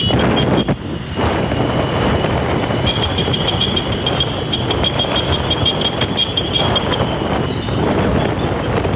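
Motorcycles running on the move, with wind noise on the microphone. A steady high whine drops out about a second in and comes back a couple of seconds later.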